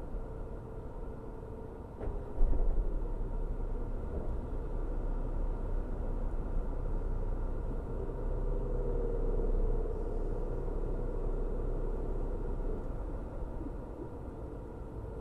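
Car driving at steady speed: a continuous low rumble of road and engine noise with a faint steady hum. There is a brief click about two seconds in and a short bump in loudness just after.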